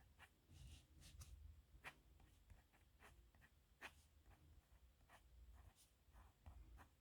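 A pen writing on paper: faint, short scratchy strokes in an irregular rhythm, with a few sharper ticks about two and four seconds in.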